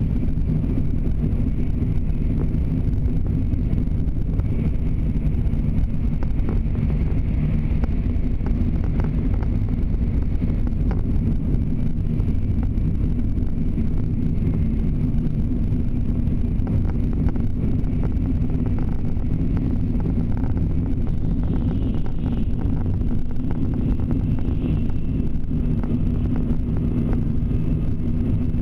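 Steady low rumble inside a Shinkansen passenger car running at speed: the running noise of wheels on rail and air rushing past the car body. A faint high whine comes and goes now and then.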